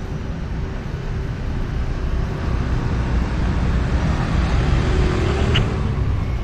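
Street traffic going by, swelling louder in the middle, with a brief high-pitched squeak near the end.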